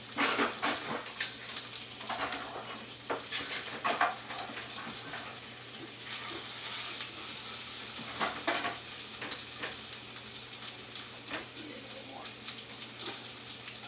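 Skin-on chicken legs sizzling steadily in a hot pan as they sear, with several sharp knocks and clatters of kitchen utensils and cookware over it.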